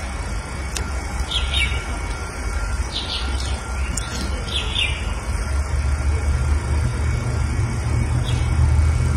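Small birds chirping, a few short falling calls in the first half, over a steady low rumble that grows louder in the second half.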